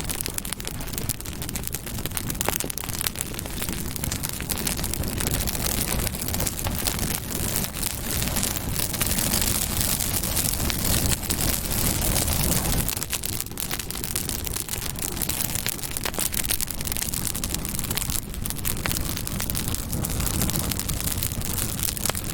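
Campfire burning, with dense, continuous crackling and popping over a low rumble of the flames.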